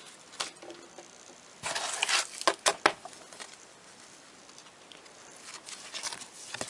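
Handling noise from unpacking a tool kit: a short rustle about two seconds in, then two sharp clicks, with a few faint ticks after.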